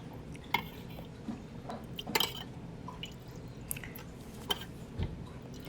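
Hot basting liquid being spooned over a whole duck, dripping and splashing back into the pan in scattered small drips and taps.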